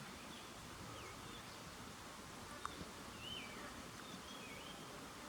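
Bird calls: a scattering of short whistled notes, each sliding down or up in pitch, over a steady background hiss, with a single sharp click about halfway through.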